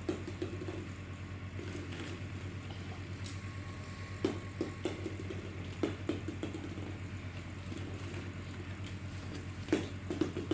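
Hollow plastic ball-pit balls knocking and clattering as they are tossed back into the pit, a few light knocks spread out, over a steady low hum.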